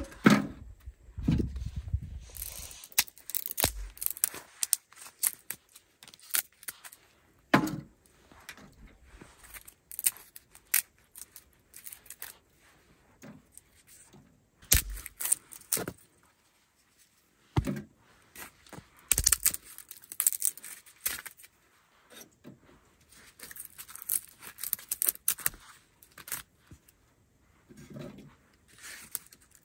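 Irregular handling noises: scattered clicks, small rattles and scrapes, with a few low thumps spaced several seconds apart.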